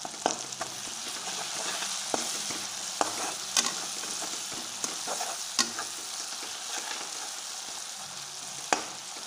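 Onion and spice paste sizzling in hot oil in a kadai, stirred with a perforated steel spatula that scrapes the pan and knocks against it in irregular sharp clicks over a steady hiss.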